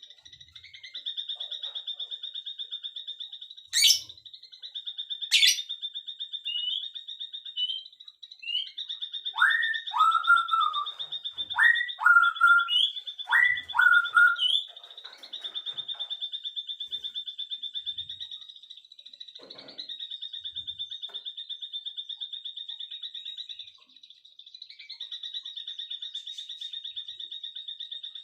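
A continuous high, rapidly pulsing trill, with a bird giving four loud, short calls, each a quick downward swoop, around ten to fifteen seconds in. Two sharp clicks come about four and five and a half seconds in.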